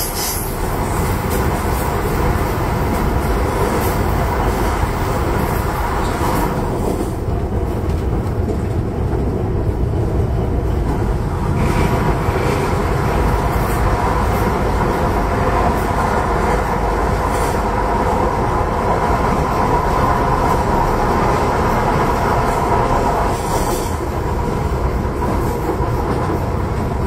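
Train running through a rail tunnel, a steady loud rumble with occasional sharp clacks from the wheels on the track.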